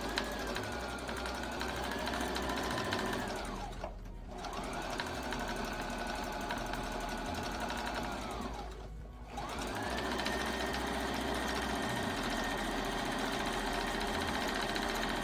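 Electric sewing machine stitching down a folded hem, running in three spells with short stops about four and nine seconds in. Its motor whine rises in pitch as each run speeds up and falls as it slows.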